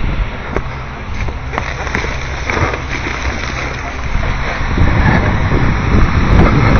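Rear-loader garbage truck running at the curb, its engine a steady low hum with a few light knocks. About five seconds in, a louder, rougher rumble builds up.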